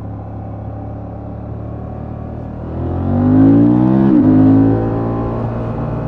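Honda XL750 Transalp's 755 cc parallel-twin engine through its stock exhaust: running steadily, then revving up and getting louder about three seconds in, with a sharp break at the top of the rise, like a gear change, before settling back to steady running.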